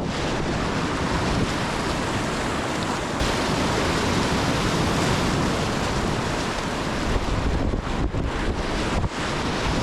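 Rushing whitewater around a kayak running rapids: a steady, loud roar of churning water, with wind buffeting the action camera's microphone.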